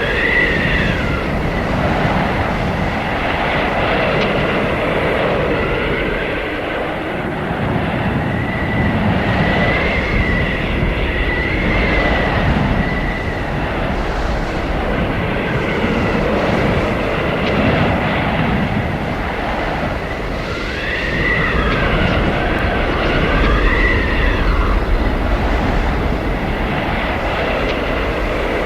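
Howling blizzard wind: a steady, loud roar that swells and eases in gusts, with thin whistling tones rising and falling over it, strongest in the middle and again near three-quarters through.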